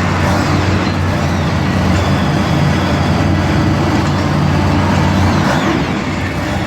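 Monster truck engine running loudly and steadily in an arena, with a deep, low-pitched sound.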